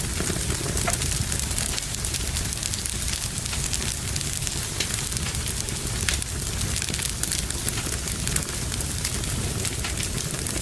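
Wood fire burning in a fireplace: steady crackling with many small, irregular pops over a low, even rush of flame.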